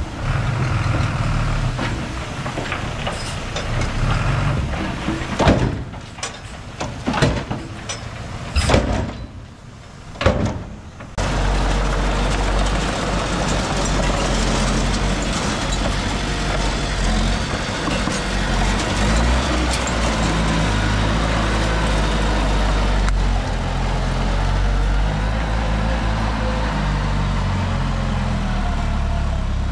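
Heavy diesel construction machinery working: an engine running unevenly with several sharp knocks over the first ten seconds, then, after an abrupt change about eleven seconds in, a steady low engine drone.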